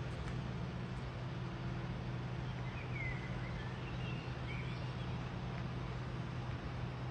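Komatsu PC8000 mining excavator running with a steady low hum. A few short bird chirps come in the middle.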